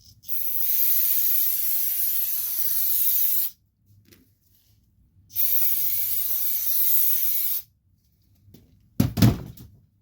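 An aerosol can spraying in two long hissing bursts, the second after a pause of about two seconds, charging a minibike tire for the flammable-spray bead-seating trick. A short, loud thump comes near the end.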